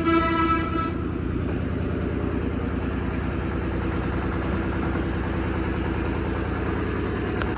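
A tractor's diesel engine idling steadily with an even low pulse. A horn tone fades out in the first second.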